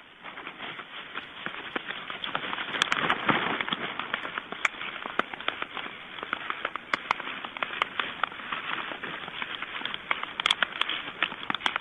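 White stork clattering its bill: a rapid, dry rattle of many clicks, loudest a few seconds in.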